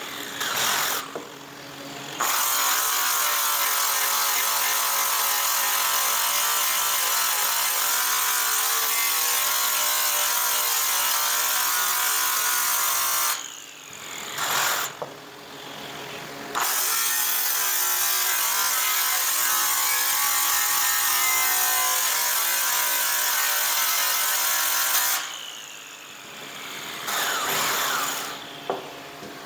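Electric buffing tool with a cloth buff being run against a metal exhaust pipe, polishing it with compound. The motor sound is loud and steady, in two long runs. It cuts out about 13 seconds in and again near the end, each time with a falling whine as the motor winds down.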